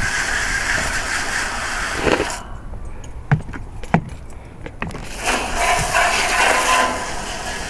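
Water spraying from a garden hose in two bursts that start and stop abruptly, with a few sharp clicks in the pause between them.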